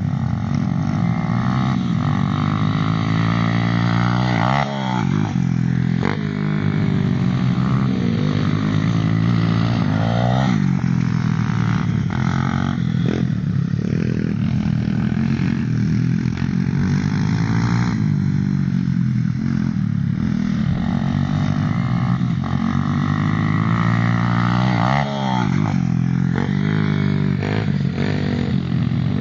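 Small off-road motorcycle engine running hard, its pitch rising and falling again and again as the throttle is opened and closed.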